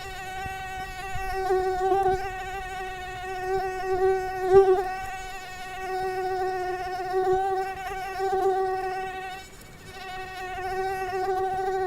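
Mosquito in flight: the steady, high-pitched whine of its wingbeat, wavering slightly and swelling and fading as it moves. It dips briefly about ten seconds in.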